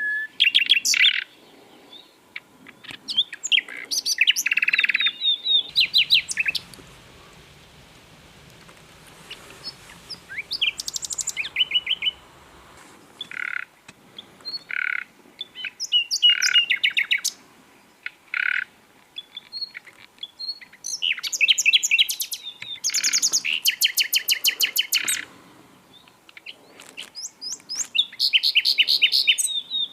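Common nightingale singing: loud phrases of rapidly repeated notes and trills separated by short pauses, with a few separate single whistled notes near the middle.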